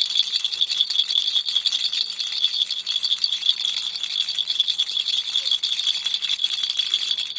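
Baby toy rattle shaken without a break: a fast, dense, high-pitched rattle of loose beads inside.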